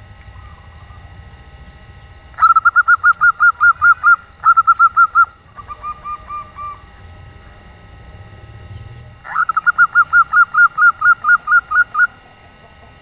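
Female zebra dove giving rapid trilled calls of evenly spaced notes, about eight a second, in four runs: two loud ones starting about two seconds in, a quieter, slightly lower one just after, and a longer run near the end. This is the female's call used to draw males.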